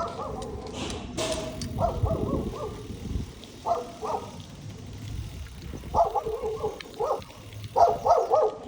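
A dog barking in short clusters of barks, several times, over the low rumble of the bike ride.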